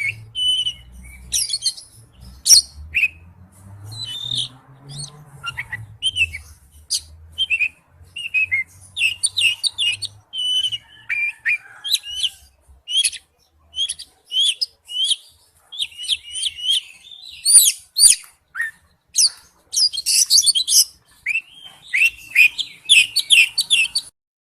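A songbird singing a long, varied song of rapid high chirps, whistles and trills, with short pauses between phrases.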